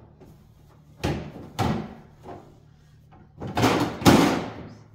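Plastic freezer drawers and containers being handled: a couple of sharp knocks about a second in, a smaller one after, then a louder sliding clatter near the end, as of a drawer or bin pushed into place.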